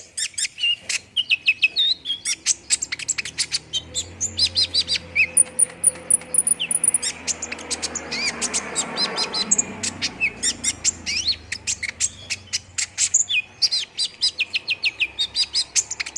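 A kolibri ninja sunbird singing a fast, unbroken run of short, high chirps and twittering notes, with a thin high whistle held for a couple of seconds midway; this is bait song used to set captive sunbirds singing.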